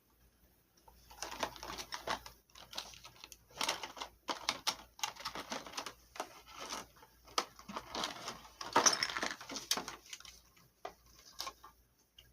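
Small plastic toy pieces and their plastic packaging being handled: bursts of crinkling and rustling with many sharp clicks and taps, thinning to a few clicks near the end.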